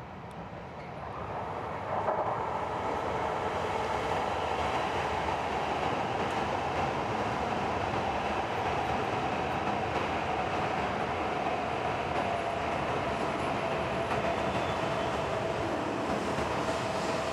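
JR East E8 series Shinkansen train rolling past at close range. Its running noise swells over the first two seconds and then holds steady, with a whine that slowly drops in pitch.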